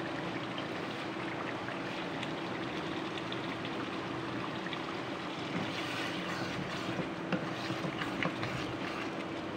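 Chicken and green capsicum sizzling as they fry in oil in a karahi, with a steady low hum underneath. A wooden spatula stirs through the pan, and its scraping and light knocks grow busier from about six seconds in.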